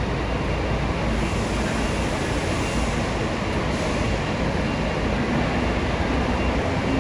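Scania K400 double-decker coach's diesel engine running as it drives, a steady low rumble mixed with road noise.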